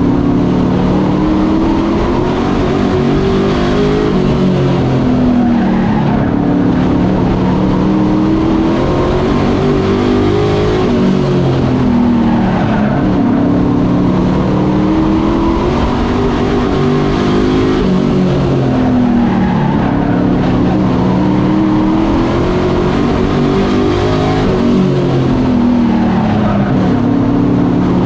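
Several Super Pro race trucks running in a pack on a short oval, their engines revving up and easing off in turn, so the engine notes rise and fall in pitch every few seconds.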